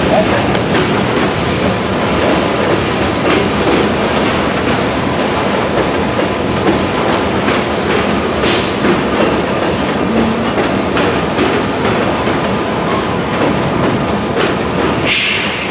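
Freight train rolling past close by: a steady rumble with the clatter of steel wheels over rail joints. A short hiss comes near the end.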